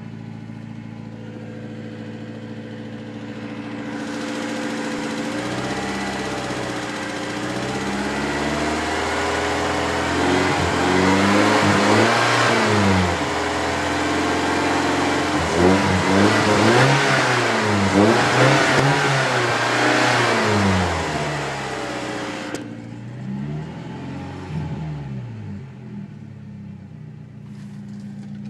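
BMW E30 318is's M42 1.8-litre four-cylinder twin-cam engine idling, then revved up and down several times before settling back to idle. The engine has a ticking noise that a new timing chain tensioner has not cured.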